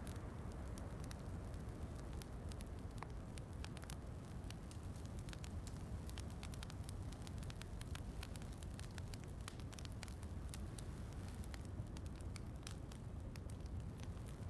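Wood fire crackling, with frequent small, sharp pops scattered irregularly over a steady low rushing noise.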